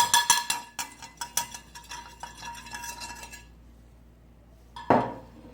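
Metal spoon clinking and scraping against a bowl while spices are mixed into a milk, vinegar and egg marinade, the bowl ringing with each knock. The clinking stops about three and a half seconds in, and a short, louder noise comes near the end.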